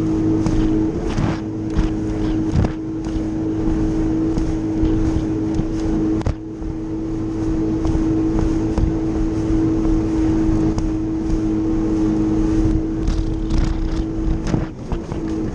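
Jet ski engine running at a steady throttle, a constant high whine over the rush of water and wind; it dips for a moment about six seconds in.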